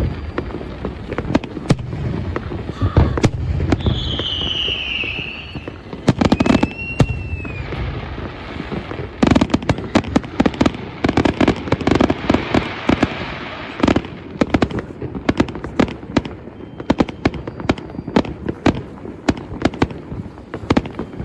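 Fireworks going off in a continuous barrage of bangs and crackles. About four seconds in a whistle falls in pitch, and around seven seconds another whistle rises and falls. From about nine seconds the crackling grows dense.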